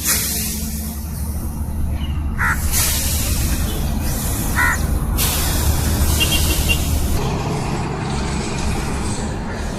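Wind rushing over a smartphone microphone in gusts, with a steady low rumble underneath. A bird gives two short calls, about two seconds apart.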